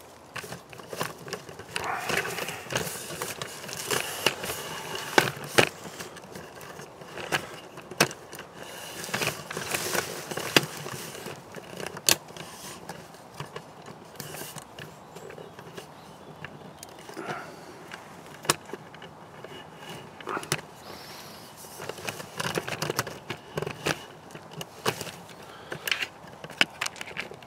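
Handling noise of a camera being picked up and repositioned: rustling against clothing, with irregular sharp clicks and knocks.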